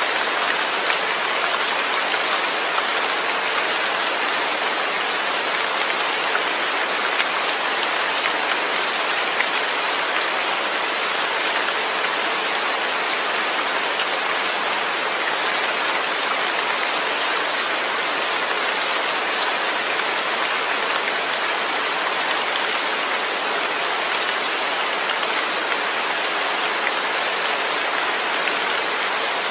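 Steady rain falling, an even hiss of countless drops pattering on a surface, with no thunder.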